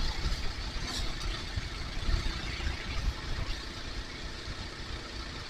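Kawasaki KLR650 single-cylinder motorcycle engine running steadily under the rider, mixed with a steady rush of riding noise, a little louder in the first half.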